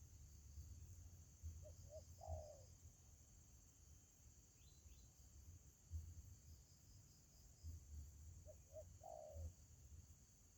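Spotted dove (tekukur) cooing faintly: two short notes, then a longer falling coo. The phrase comes twice, about seven seconds apart, over a steady high drone of crickets.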